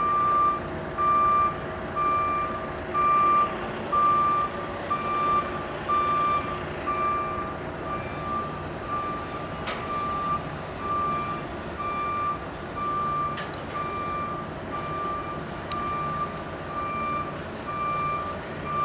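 JLG aerial lift's motion alarm beeping steadily, about one high beep a second, over the low hum of the lift's motor.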